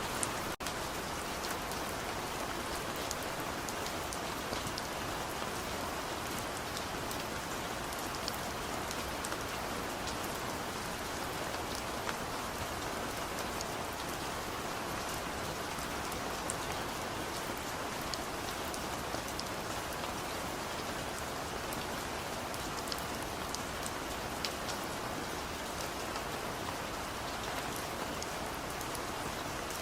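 Steady rain falling: an even hiss with scattered individual drops ticking through it, and a momentary dip in level about half a second in.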